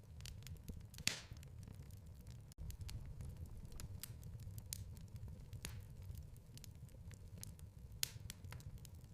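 Wood fire in a fireplace crackling, with irregular sharp pops over a low, steady rumble of the flames. The loudest pops come about a second in and again near the end.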